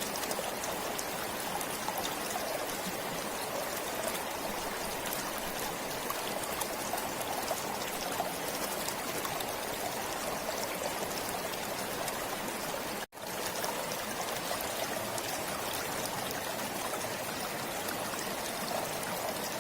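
Forest stream flowing steadily, water trickling and splashing over stones, with a split-second dropout about two-thirds of the way through.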